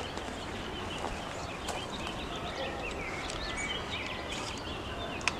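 Outdoor woodland ambience: small birds chirping repeatedly over a steady background hiss, with a single sharp click near the end.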